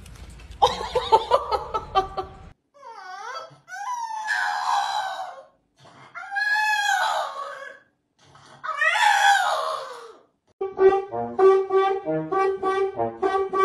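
Several drawn-out animal calls, each about a second long and rising and falling in pitch, with a run of short falling chirps before them. About ten and a half seconds in, brass music with a steady, bouncy rhythm starts.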